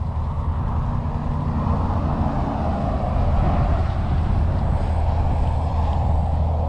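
Road traffic: a steady rush of vehicles with a deep rumble, swelling a little a few seconds in as traffic passes.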